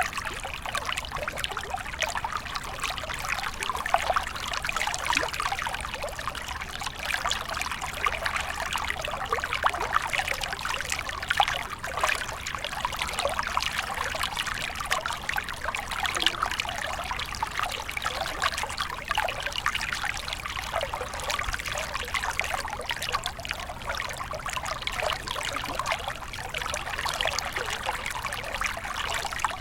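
Shallow stream flowing and trickling steadily, a continuous bubbling splash of water over stones with no pauses.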